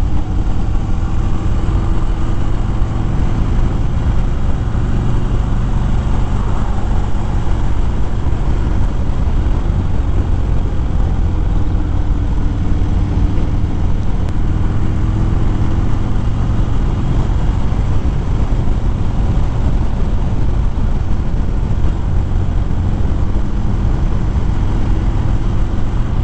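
2013 Harley-Davidson Fat Bob's V-twin engine running steadily while riding on the road, a deep continuous rumble with a slight rise and fall in pitch, under wind and road noise.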